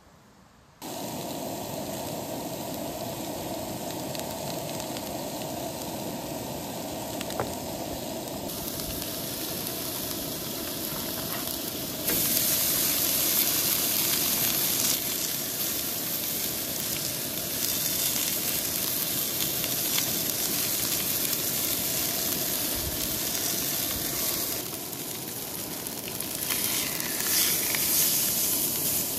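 Food sizzling as it fries, a steady hiss that starts suddenly and gets louder and brighter about twelve seconds in.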